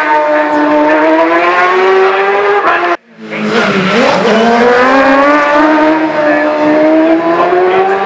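Racing superbike engine at high revs, its pitch climbing steadily as the bike accelerates. The sound cuts off sharply about three seconds in, then another bike's engine comes in, dips briefly in pitch and climbs again.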